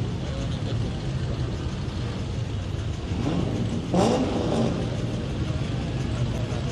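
Car engine running with a steady low rumble, revved sharply once about four seconds in, its pitch rising.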